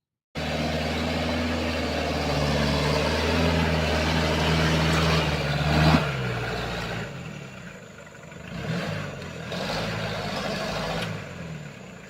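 Daihatsu Taft 4x4's engine revving hard under load as the vehicle struggles to climb a slippery, rain-soaked dirt slope. A sharp knock about six seconds in is followed by a drop in revs, and the engine then rises and falls.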